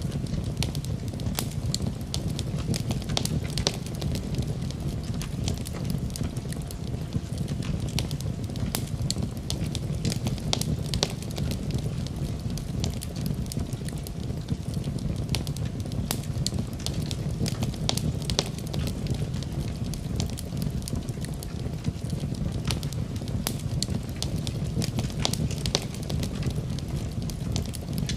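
Fireplace fire burning steadily: a low rumble of flames with many sharp, irregular crackles and pops.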